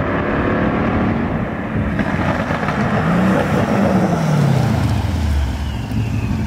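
Engine and exhaust of an ECU-tuned Mercedes-Benz CLS550 V8 as the car approaches and goes past. The note rises briefly about three seconds in, then drops in pitch as the car passes and slows.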